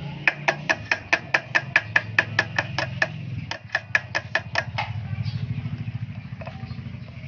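Rapid, evenly spaced tapping, about five taps a second, over a low steady hum; the tapping stops about five seconds in.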